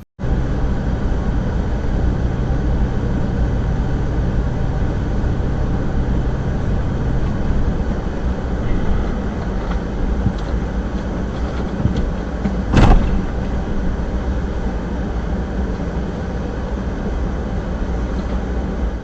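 Steady engine and road noise of a car driving, with one short sharp knock about two-thirds of the way through.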